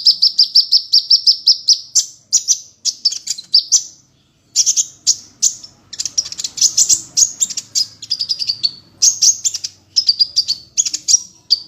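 Songbird singing, a tutor recording for training white-rumped shamas: a fast, even trill of high notes for about two seconds, then varied quick chirps and whistled phrases, with a short break about four seconds in.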